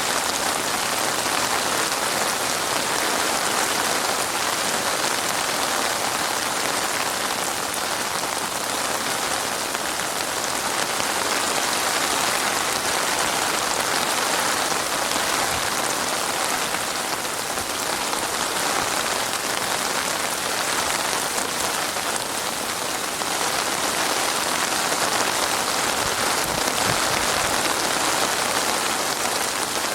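Heavy rain falling steadily, an even hiss of drops on surfaces with no let-up.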